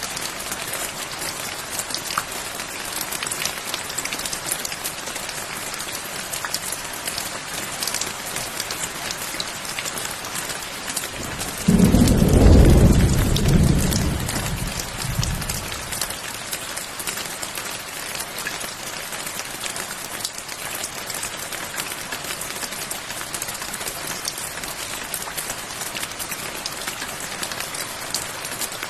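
Steady rain falling on a surface, with a crackle of close drops. About twelve seconds in a clap of thunder breaks in suddenly, rumbles low, and dies away over some four seconds.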